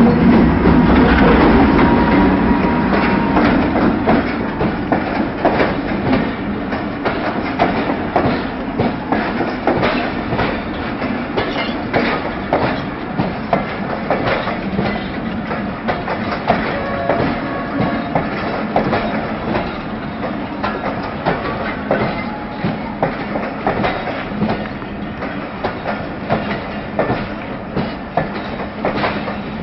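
A diesel locomotive runs past close by, its engine loudest in the first few seconds. Then passenger coaches roll by with a steady clickety-clack of wheels over rail joints, gradually growing quieter.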